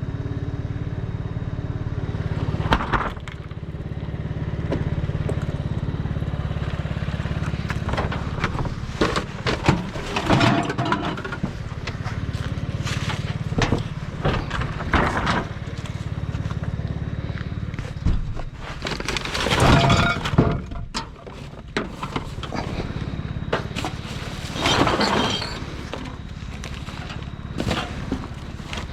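Junk being rummaged through and shifted in a dumpster: irregular clatters, knocks and cracking of hard items, loudest about two-thirds of the way in, over a steady low hum.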